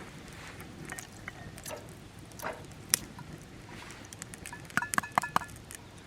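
Scattered sharp clicks and knocks, then a quick run of five or six light ringing metallic clinks about five seconds in.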